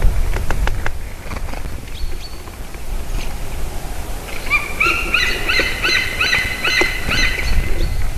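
A bird calling a series of about nine short, evenly spaced ringing notes, roughly two to three a second, starting about halfway in and stopping near the end, over a steady low rumble.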